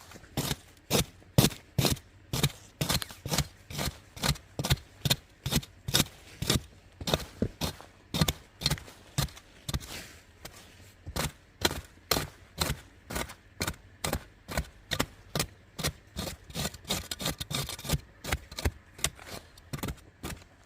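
Hand tool cutting or chopping in a steady rhythm: short, sharp strokes about two a second.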